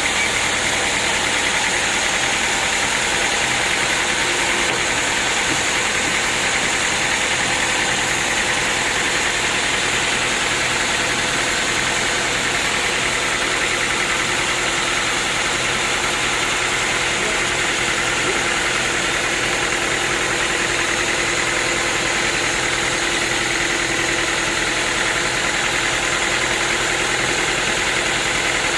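Sawmill machinery running steadily: a motor-driven saw with an unbroken, even machine noise.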